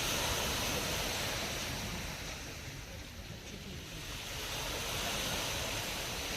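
Black Sea surf washing onto the shore, two waves swelling up and falling away in turn.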